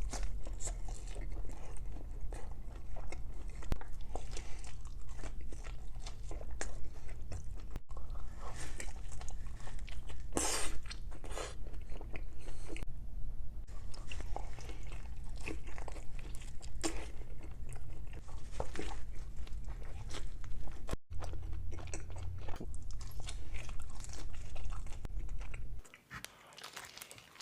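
Close-miked biting and chewing of pizza, with crisp crackling crunches of crust between softer chewing. The sound drops away near the end.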